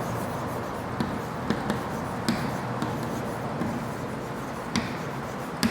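Faint scratching and tapping of someone writing, with a few small clicks over steady room noise.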